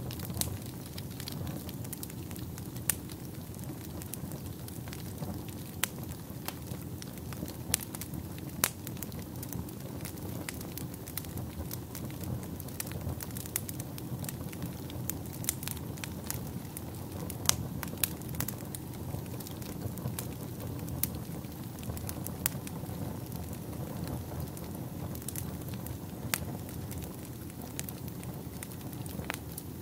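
Wood fire burning in a fireplace: a steady low rumble of flames with frequent crackles and a few sharper pops scattered irregularly throughout.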